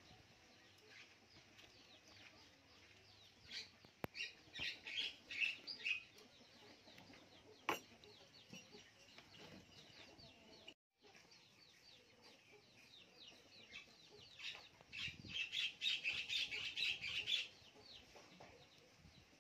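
Birds chirping: many short, high calls, which bunch into two busy flurries, about four seconds in and again around fifteen seconds in.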